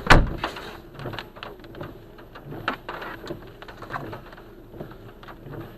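A loud bang right at the start, then scattered smaller clicks and knocks over a low rumble.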